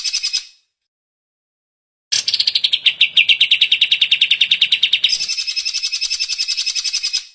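Cucak ijo (greater green leafbird) singing in rapid, fast-repeated trills. A burst cuts off about half a second in, and after a silent gap a long trill of about five seconds follows, shifting to a higher pitch partway through.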